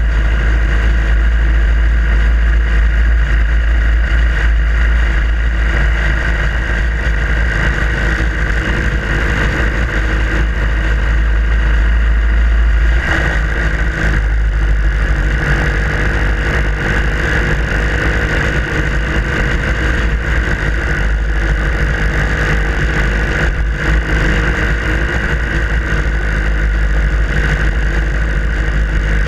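Harley-Davidson Sportster Iron 883's air-cooled V-twin running under way at steady riding speed, with a heavy low rumble. About halfway through, the engine note briefly dips and then settles at a slightly different pitch.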